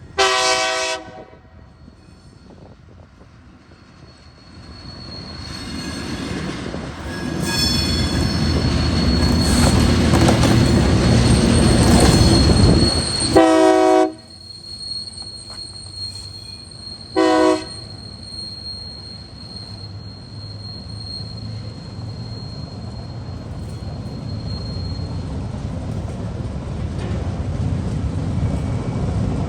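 TasRail diesel freight locomotives passing: a short horn blast at the start, then the engine noise builds as the train comes close. A horn blast comes about halfway through and a shorter one a few seconds later. A thin high squeal of wheels on the rails carries on under the rumble of the passing wagons.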